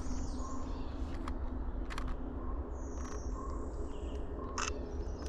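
Outdoor woodland sound of small songbirds giving short high chirps and calls over a steady low background rumble, with a few sharp brief clicks scattered through it.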